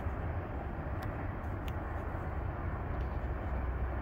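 Distant freight train rumbling steadily down the line, with a couple of faint clicks about a second in.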